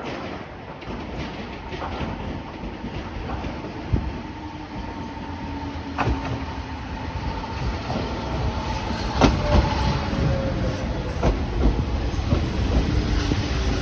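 Electric train running on jointed rail: a steady rumble with sharp clicks every couple of seconds from the rail joints, and a faint motor whine that drifts slowly down in pitch.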